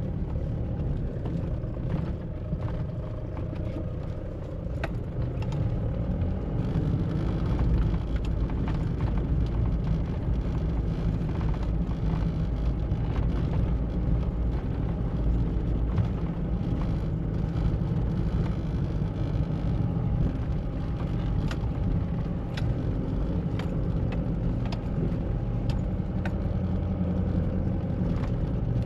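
2013 Mahindra Bolero SUV being driven: a steady engine and road rumble, dipping slightly a few seconds in and building again after, with scattered light clicks and knocks.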